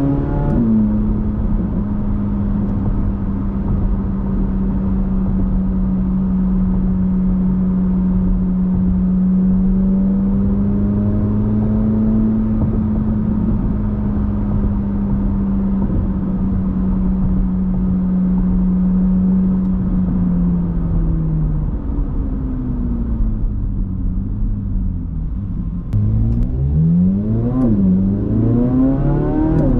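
Corvette C8 Z06's flat-plane-crank V8 exhaust under way: an upshift right at the start, then a steady cruising drone for about twenty seconds that eases off and falls in pitch. Near the end it accelerates again with two quick dual-clutch upshifts, short-shifted at about 5–6k rpm because the engine and transmission are still being run in.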